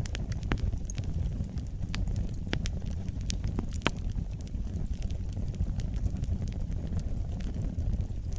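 Wood fire crackling: a steady low rumble of burning with irregular sharp pops and snaps, more of them in the first half.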